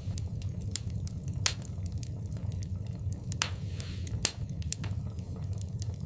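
Wood fire crackling in a fireplace: irregular sharp pops and snaps over a steady low rumble, the loudest pop about a second and a half in, with more around three and a half and four seconds.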